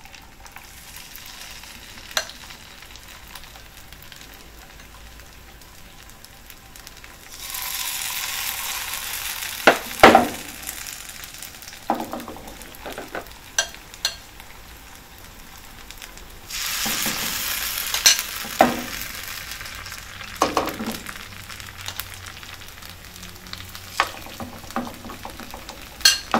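Spoonfuls of chickpea batter sizzling in hot oil in a nonstick frying pan. Twice the sizzling jumps up suddenly as fresh batter goes in, then dies down, and a metal spoon clicks and taps against the bowl and pan throughout.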